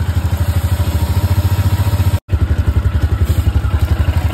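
Motorcycle engine idling with an even, rapid pulsing beat of about ten pulses a second. It breaks off for an instant just over two seconds in and then carries on the same.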